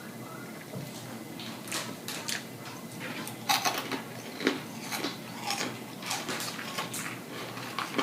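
Close-up eating sounds: wet chewing and mouth smacking, with irregular sharp clicks and crackles several times a second.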